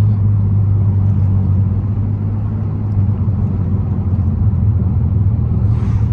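Muffler-deleted exhaust of a 2002 Pontiac Grand Prix GT's 3.8-litre V6 droning steadily while the car is under way, heard from inside the cabin.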